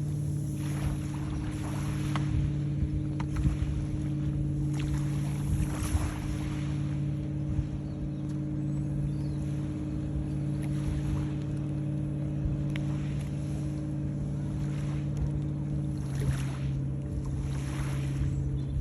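A motor running with a steady low hum that shifts slightly in pitch about 16 seconds in, under soft swells of hiss like water washing.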